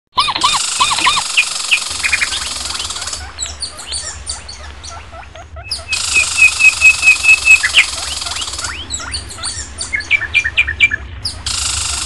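Small birds chirping and calling in quick runs of short notes, over a steady high hiss that starts and stops abruptly in blocks.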